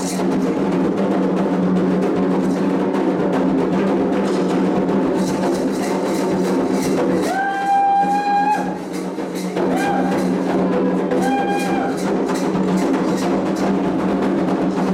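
Candomblé ceremonial drumming: a steady rhythm of hand drums and percussion, with a few held high notes over it around the middle.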